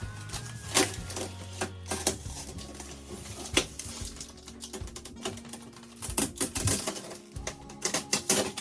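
Background music over irregular clicks and clattering, as packing pieces and protective film are pulled off and out of a new fridge freezer.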